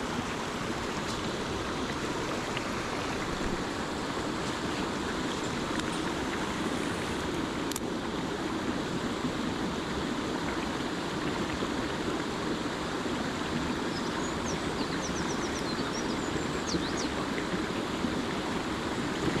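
Mountain headwater stream rushing steadily over rocks.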